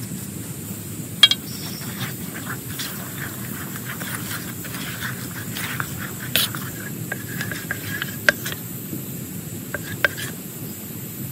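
Rain falling steadily on a tent, with scattered sharp clicks and small knocks, the loudest about a second in.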